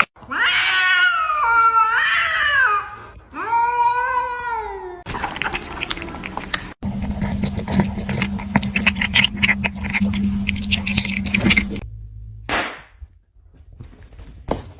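A cat yowling: two long, drawn-out calls whose pitch bends up and down, over the first five seconds. Then a stretch of crackling, clicking noise over a steady low hum, with a short burst of noise near the end.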